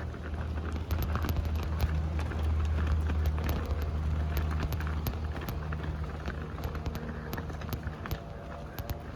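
A vehicle's engine running steadily with a low hum that eases off in the second half, with many small clicks and knocks over it.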